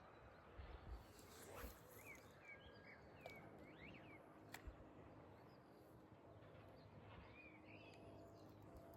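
Faint outdoor background hiss with small birds chirping now and then, in short quick calls, and a few soft low thumps.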